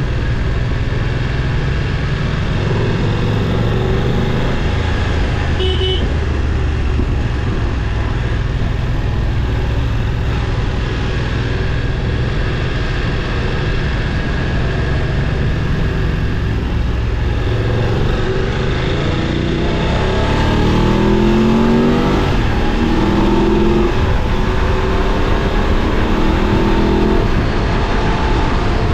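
Motorcycle engine running steadily while riding. About two-thirds of the way through, it revs up in rising steps with short drops between them, shifting up through the gears as it accelerates.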